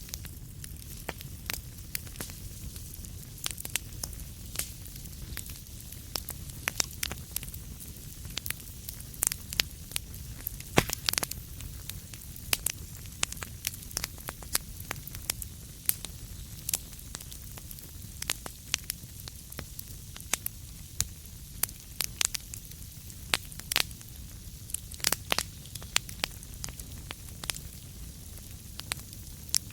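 Wood fire crackling in a fireplace: irregular sharp pops and snaps over a low steady rumble and a soft hiss.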